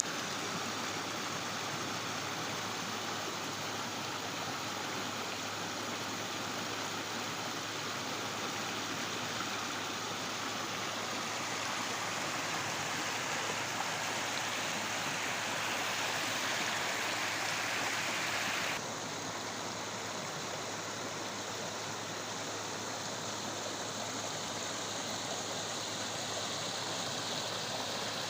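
Stream water flowing steadily, an even rushing with no other sound on top. About nineteen seconds in, the sound abruptly turns slightly quieter and duller, as at a cut between recordings.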